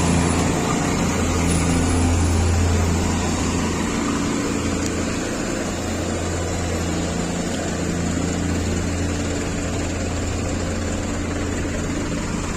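Heavy diesel truck engine running steadily with a low drone, easing off slightly a few seconds in.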